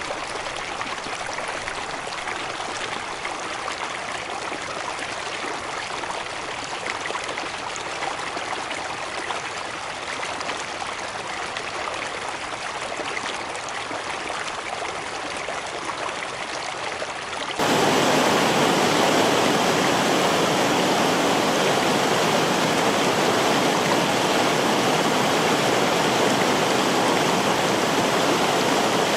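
Running water rushing steadily, a stream's flow. About two-thirds of the way through it cuts suddenly to a louder, fuller rush of water.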